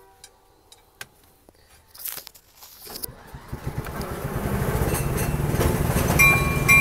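A small ride-on backyard train getting under way. After a few near-quiet seconds with light clicks, its drive starts about three seconds in and runs steadily louder as the train pulls away. Brief high squeaks come near the end.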